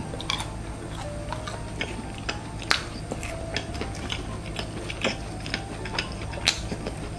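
Close-up chewing of crispy fried food: irregular sharp crunches and mouth clicks, one to three a second.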